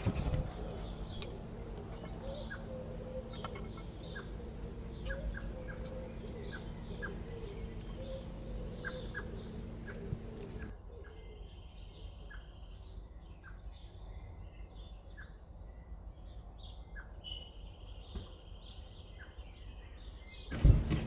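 Small birds chirping: short, repeated high calls over a steady low hum, with faint light clicks among them. About halfway through the hum drops away and the calls carry on.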